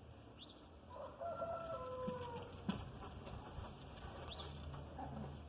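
A rooster crowing once, a single long call that dips in pitch at its end, followed by a sharp click.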